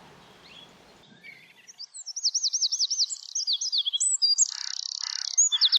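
European robin singing, starting about two seconds in: a varied phrase of high, quick sweeping notes, a short fast trill and rapid repeated notes.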